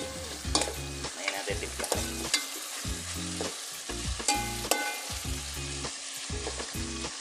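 Chicken wings with tomato and onion sizzling as they sauté in an aluminium pot, stirred with a metal spoon that scrapes and clinks against the pot again and again.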